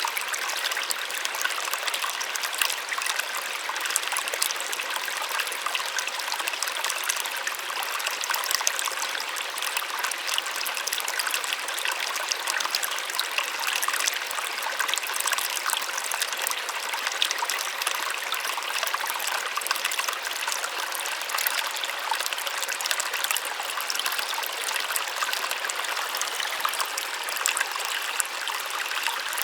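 Small waterfall running steadily: an even, bright rush of falling water with fine splashing.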